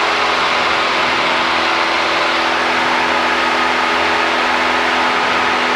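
Cessna 172's piston engine and propeller droning steadily in flight, one unchanging pitch throughout.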